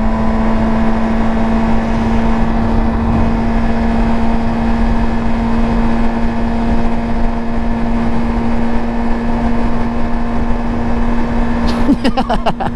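Yamaha R6 sport bike's inline-four engine running at a steady pitch while riding, over low wind rumble; the engine note wavers near the end.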